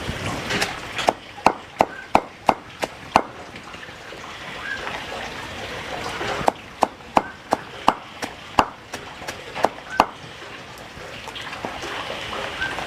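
Knife chopping on a cutting board: two runs of sharp, even strikes, about three a second, with a pause between them.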